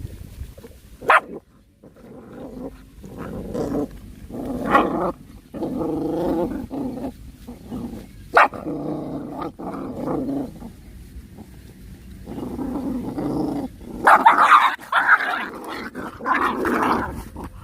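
Puppies growling at each other in repeated bouts of a second or two as they fight, angry, with two short sharp barks and a louder, harsher spell of growling and snarling near the end.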